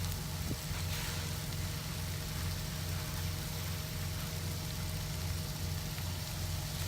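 Chunks of chicken breast sizzling in hot olive oil in a frying pan, a steady hiss, over the low, evenly pulsing hum of an idling engine.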